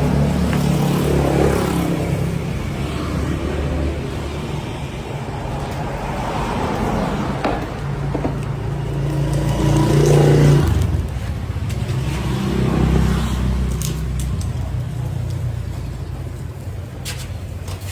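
Small single-cylinder scooter engine of a Honda Lead running, its speed and level rising and falling a few times, loudest about ten seconds in.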